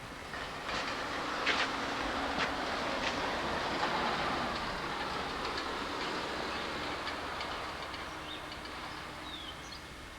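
A vehicle passing by: a rushing noise that swells over the first few seconds and slowly fades away, with a few sharp clicks.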